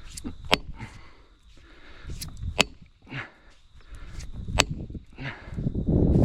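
A felling wedge being driven into the back cut of a tree, struck three times about two seconds apart with sharp metallic hits.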